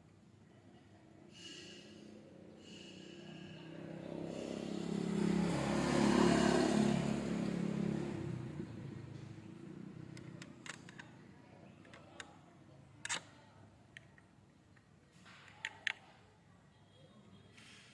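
A low rumbling noise swells over a few seconds and fades, then several sharp clicks and taps.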